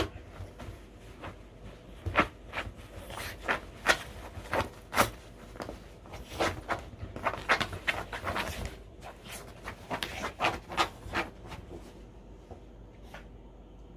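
A dog rubbing and scuffling its freshly washed body about to dry its fur: irregular rough rubbing strokes, one or two a second, that die down near the end.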